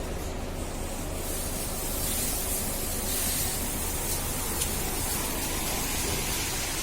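Shuttle-type automatic car wash machine spraying water: a steady hiss of water jets over a low steady hum, the hiss growing louder about a second and a half in.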